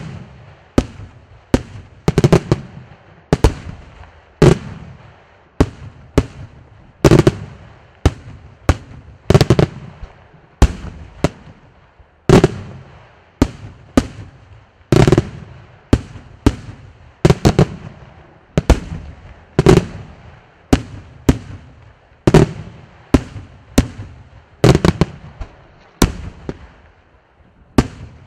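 Daytime aerial firework shells bursting in a steady series of loud bangs, roughly one to two a second, each trailed by a short echoing rumble.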